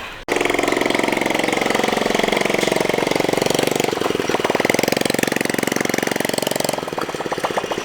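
Honda Chaly's small single-cylinder four-stroke engine running with a fast, even beat, its pitch rising and falling a little. It eases off to a lighter, lower running near the end.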